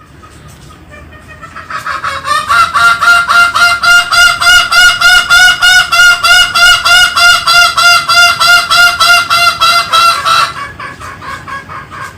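Green junglefowl calling in a long, rapid run of nasal notes, about four a second. The notes build up over the first two seconds, stay loud for about eight seconds, then fall away into a few weaker notes near the end.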